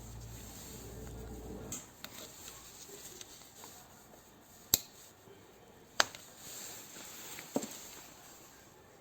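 A low hum that stops about two seconds in, then a few sharp metallic clinks, the two loudest about a second apart, like metal tools or parts being handled during workshop work.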